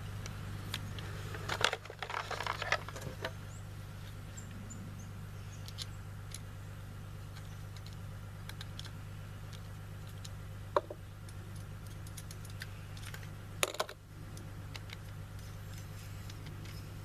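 Scattered small clicks and taps of metal rifle parts being handled during an AR upper assembly, a few sharper knocks among them, over a steady low hum.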